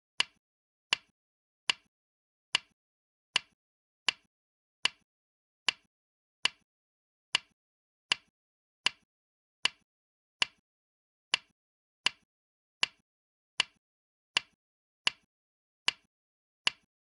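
Go stone placement clicks, one sharp click for each move of the game record, repeating evenly about once every 0.8 seconds.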